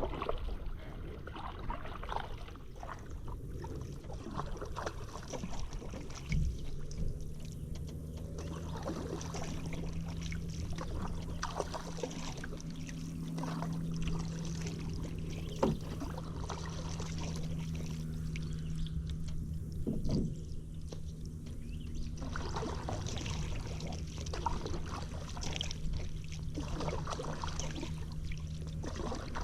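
Kayak paddle strokes: water splashing and dripping off the paddle blades, with small knocks against the kayak. From about six seconds in, a low steady hum sits underneath.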